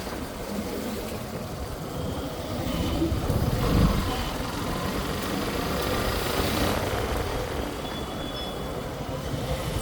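Road traffic: a steady rumble of vehicles and wind, swelling to its loudest about three to four seconds in.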